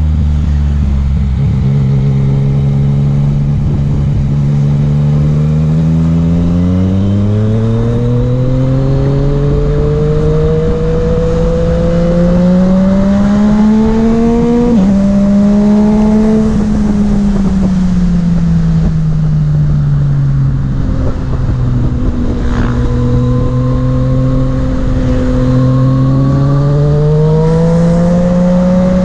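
Yamaha MT-09's three-cylinder engine under way, pulling up through the revs for about twelve seconds, dropping sharply at a gear change about halfway, then falling off as the bike slows, holding, and rising again near the end. A heavy low rush of wind on the microphone runs under it.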